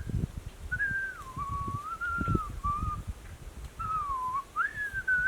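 A whistled tune: a single pure note sliding up and down in short phrases, with low thuds and rustling underneath.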